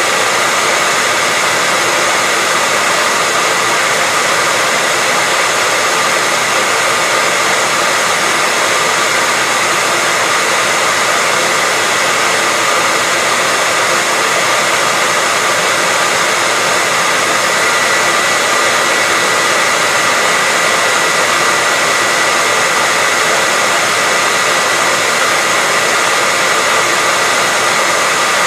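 Hair dryer running continuously at a steady setting: an even, unbroken rush of air with a steady high tone from the motor and fan.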